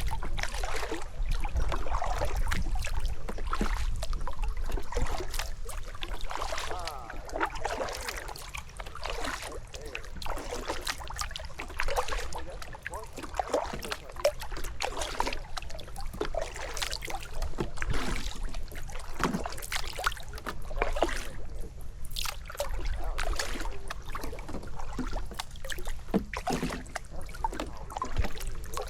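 Kayak being paddled: paddle strokes splashing and dripping, with irregular knocks of the paddle against the hull, over a steady low rumble.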